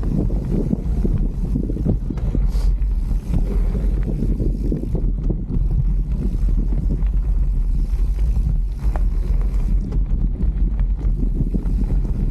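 Mountain bike riding on a trail: wind buffeting the microphone over a steady rumble of tyres on dirt, with irregular rattles and knocks from the bike over bumps.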